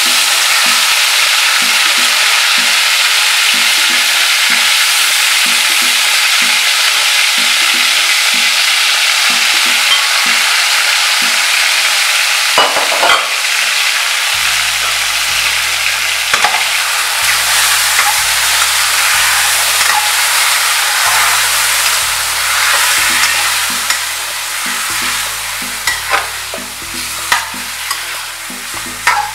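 Chicken pieces sizzling in hot oil in an aluminium caldero, a steady frying hiss. In the second half a metal slotted spoon scrapes and knocks against the pot a few times as the chicken is stirred and turned.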